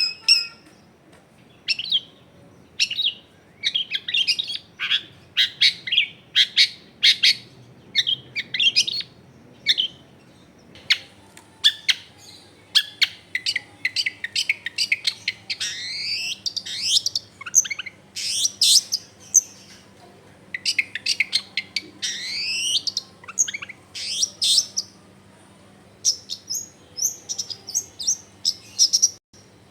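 Long-tailed shrike (cendet) in full song: rapid runs of short, sharp chirps and quick downward-sweeping whistled notes, phrase after phrase with brief pauses, over a faint steady low hum.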